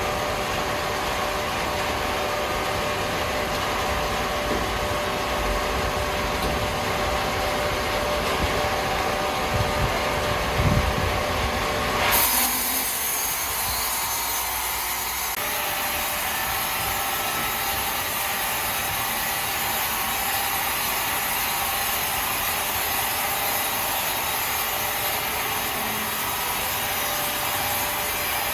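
Sawmill saw running through a log with a steady machine hum. About twelve seconds in, the sound changes abruptly to a brighter, hissier cutting noise.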